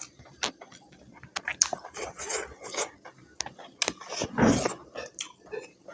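Close-up chewing and mouth sounds of a person eating: a string of short wet clicks and smacks, with a louder noisy burst about four seconds in.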